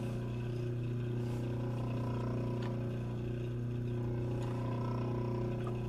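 Steady low hum from a machine or electrical source, with a few faint ticks.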